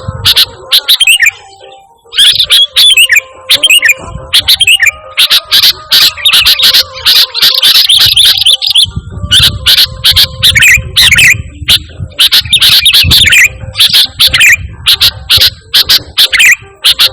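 Sooty-headed bulbul (kutilang) singing loudly, repeating short, quick chirping phrases over and over, with sharp clicks between the notes.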